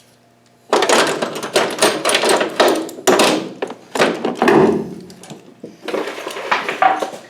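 Metal hand tools and small parts clattering and knocking as they are picked up and set down in a pile, a dense run of clanks starting just under a second in.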